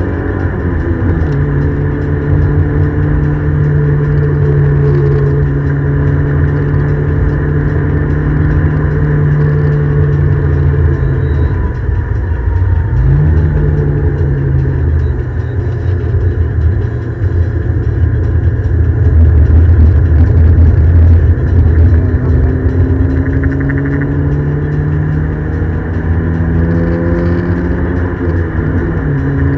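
Ford Escort XR3i's 1.8 16-valve four-cylinder engine pulling hard on track, heard from inside the car over road and wind rumble. The engine note drops at a gear change about a second in, dips again with a brief blip around the middle, then climbs steadily over the last several seconds before dropping at another shift at the end.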